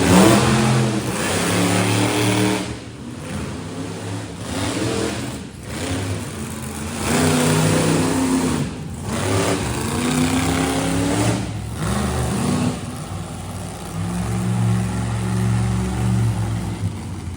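Monster truck engines revving hard, their pitch climbing and dropping again and again, with brief lulls between runs.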